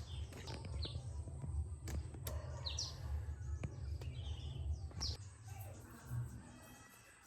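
Birds chirping in short calls over a low, steady rumble, with a few sharp clicks; the rumble dies away about five seconds in.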